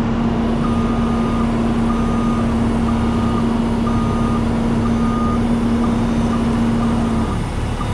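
Heavy diesel machinery running, with a backup alarm beeping about once a second as the excavator is moved up onto the rollback's deck. A steady hum under the engine stops about seven seconds in.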